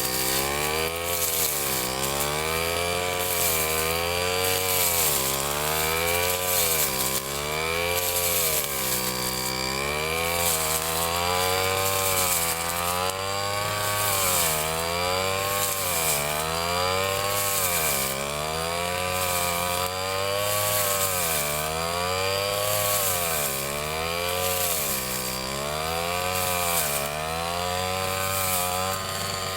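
Ryu 30.5 cc two-stroke brush cutter running at high speed under load, its engine pitch dipping and recovering about every two seconds as the cutter is swung through the grass.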